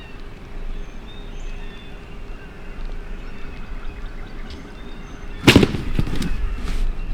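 Small birds chirping faintly over a steady low hum, then about five and a half seconds in a sudden loud burst followed by a few sharp cracks over the next second.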